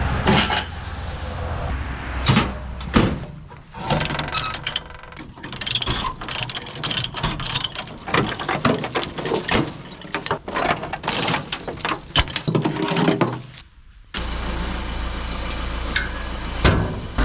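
Irregular metallic clanks, knocks and rattles of hands-on work around a truck. About 14 seconds in, this gives way to a vehicle engine running steadily.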